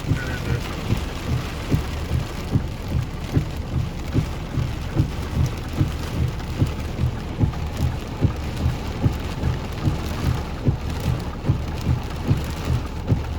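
Heavy rain falling on a car, an even hiss, with a regular low thump about twice a second.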